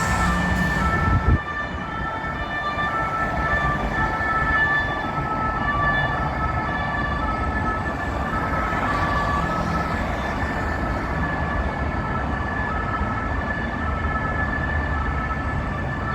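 French police two-tone siren alternating between two pitches over street traffic noise, with a short knock about a second in.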